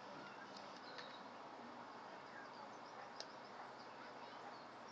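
Faint outdoor background with small birds chirping, short high calls scattered through, and a single sharp click about three seconds in.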